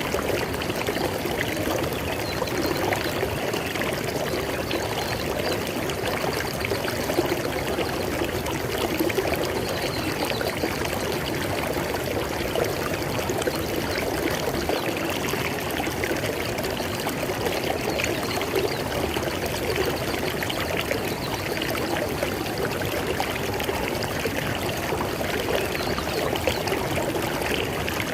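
River water flowing steadily over rocks, a constant rushing and splashing.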